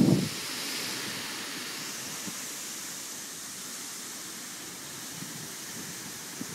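Strong wind from a passing typhoon rushing steadily. A gust buffets the microphone with a low thump right at the start.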